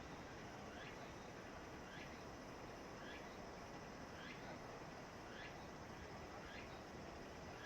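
A small animal's short, high chirp, repeated about once a second over a steady hiss.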